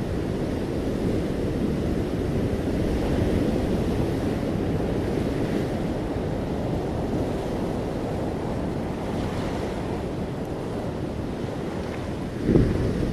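Ocean surf washing steadily onto a beach, swelling and easing, with a brief louder thump near the end.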